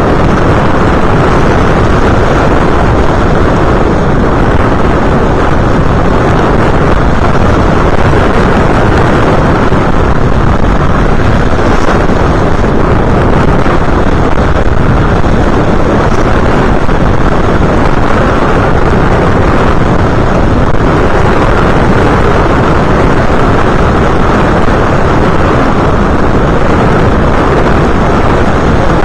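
Loud, steady rushing of wind over the onboard camera's microphone on an FPV aircraft in flight. It runs without let-up or change.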